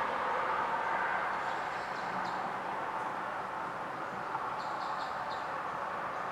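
Steady rushing outdoor background noise, with a few short, faint high bird chirps about two seconds in and again around five seconds; no thunder.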